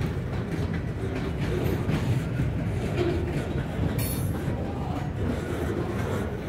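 Freight train rolling past, a steady heavy rumble of cars on the rails.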